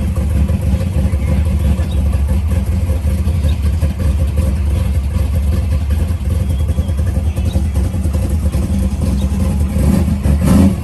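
1958 Pontiac Chieftain's V8 engine running steadily with a low, even pulsing note.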